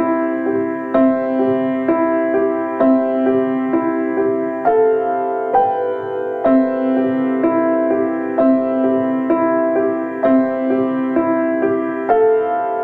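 Slow, gentle solo piano music: single notes and chords struck about once a second and left to ring.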